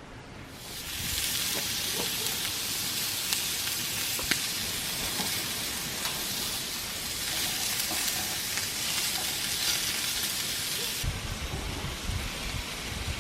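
Food sizzling in a hot pan: a steady frying hiss that builds up within the first second and cuts off abruptly about eleven seconds in, leaving a lower rumble.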